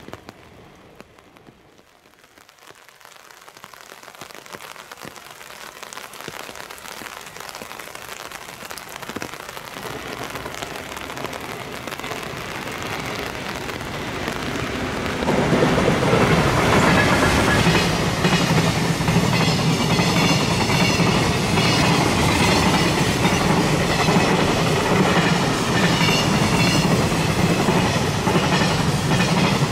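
A JR Freight EF510 electric locomotive and its container freight train approaching through heavy rain, growing steadily louder from a faint hiss. About halfway through the locomotive passes with a sudden jump in loudness. The container wagons then roll past with a steady rhythmic clickety-clack of wheels over the rails.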